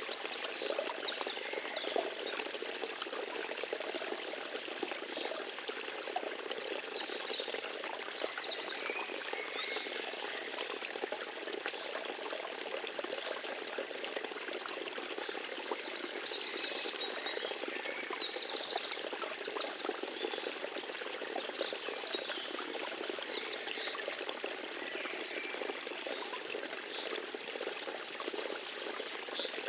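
Forest stream trickling and babbling steadily. A few short high chirps rise above it now and then, with a quick run of them just past the middle.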